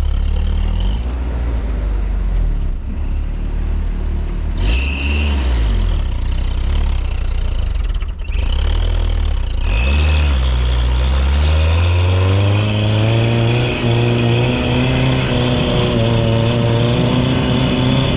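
Off-road 4x4 engine working through deep snow. In the first half the revs rise and fall at low speed, with three short high-pitched tones. About two-thirds in it revs up and holds high revs as the truck pushes on.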